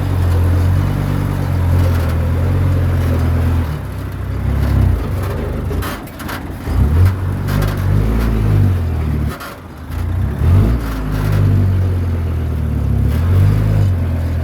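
Komatsu bulldozer's diesel engine working, its note rising and falling in pitch, with a few knocks and clanks along the way.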